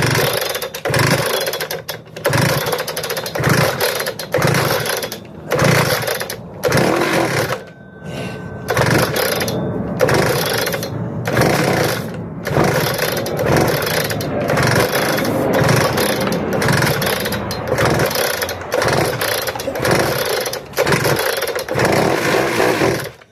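Loud machine noise in irregular bursts of one to two seconds with short breaks, from repeated attempts to start a Hilti DSH 900 two-stroke cut-off saw.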